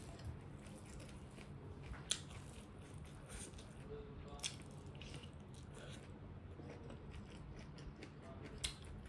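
Close-miked eating sounds: soft wet chewing and mouth smacks as food is eaten by hand. Three sharp smacks or clicks stand out, the loudest about two seconds in, over a low steady hum.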